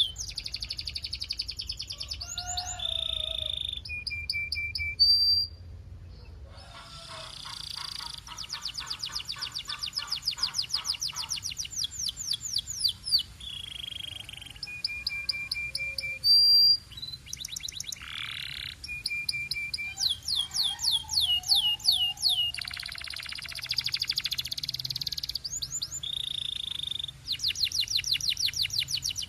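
A canary singing a long, varied song: runs of fast trills of repeated falling notes, broken by short held whistles and brief pauses, with a lower, buzzier roll mixed in.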